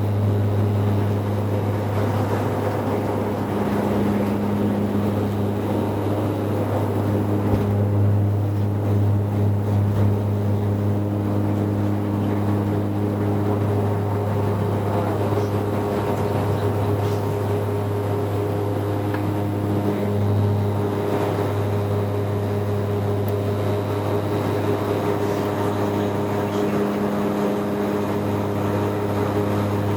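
Airliner engines heard from inside the passenger cabin: a loud, steady drone with a deep hum and a few higher steady tones.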